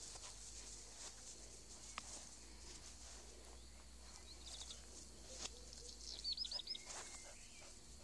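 A bird gives a quick run of four high chirps about six seconds in, after a couple of softer chirps around four seconds, over faint rustling and light footfalls of dogs playing on grass.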